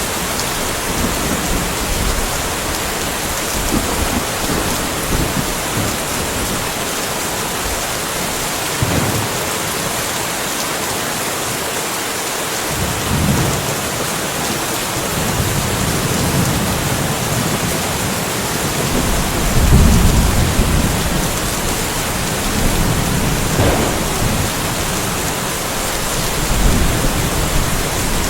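Steady rain falling, an even hiss, with low rumbles of distant thunder swelling and fading several times, the strongest about two-thirds of the way through.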